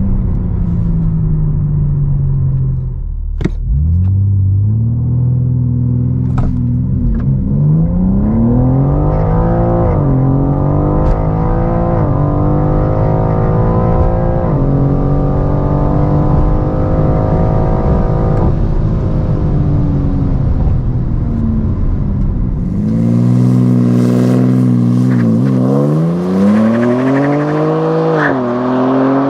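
BMW M4 Competition's twin-turbo straight-six engine on a launch-control run: revs held steady, then about three and a half seconds in it launches and the note climbs through the gears, dropping in pitch at each quick upshift. From about 23 s in a hissy wind-and-tyre noise comes up as the engine keeps pulling through further upshifts.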